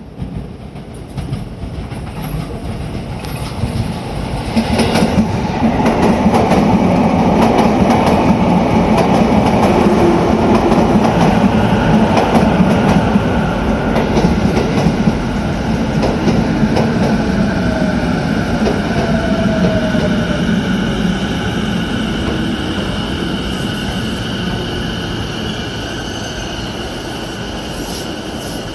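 Sotetsu 11000 series electric train running past at close range. The sound builds over the first few seconds and is loudest from about five to sixteen seconds in, then eases off. A steady high whine sets in about halfway and holds to the end.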